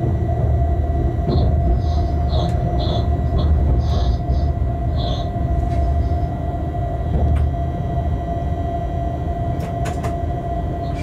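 Freight train cab at speed: a steady low rumble with a constant hum, brief high-pitched chirps in the first half and a few sharp clicks near the end.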